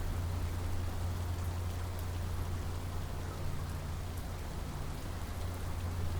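Steady heavy rain falling, an even hiss with scattered sharp drop ticks and a constant low rumble underneath.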